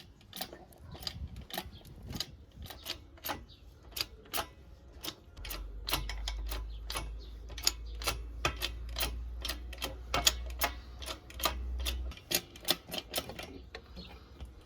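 Irregular sharp clicks and taps, about three or four a second, as the old hand drill's parts and tools are handled, with a low hum through the middle stretch.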